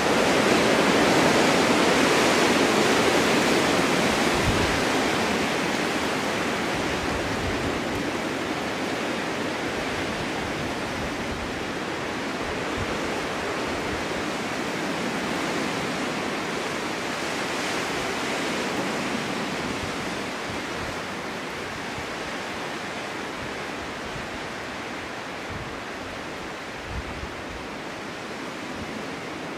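Snowstorm wind blowing in a steady rushing hiss, a strong gust at the start that slowly eases, with a smaller swell about two-thirds of the way through.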